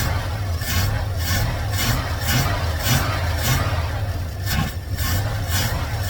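1984 tow truck's engine running, with an even pulsing about three to four beats a second and a short dip about four and a half seconds in.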